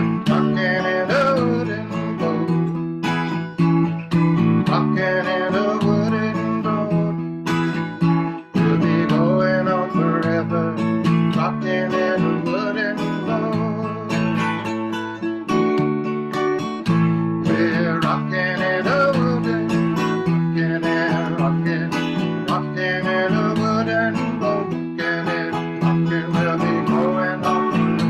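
Acoustic guitar playing an instrumental break in a song: strummed chords with a melody line above them.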